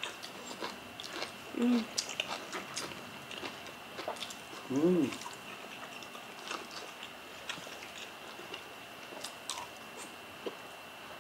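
Close-miked mouth sounds of people eating steamed fish by hand: soft chewing, lip smacks and wet little clicks. Two short hummed "mm"s, about two and five seconds in.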